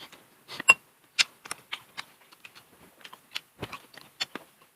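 Close-up chewing of crunchy food, with an irregular run of crisp crunches and clicks, a few a second, as a cooked seafood shell is bitten and chewed.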